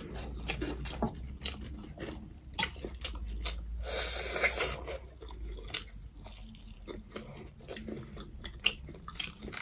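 Close-up eating sounds: two people chewing and biting mouthfuls of rice, fried chicken and cucumber pickle, with irregular wet smacks and crunches.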